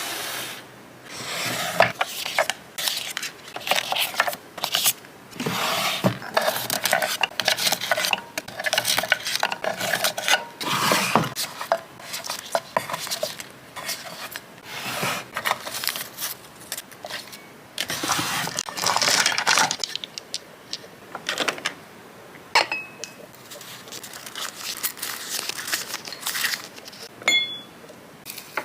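Close-up hand handling of jewellery packaging: rustling and tearing of paper or plastic wrapping with small clicks and taps, in irregular bursts, and a couple of brief light metallic clinks near the end.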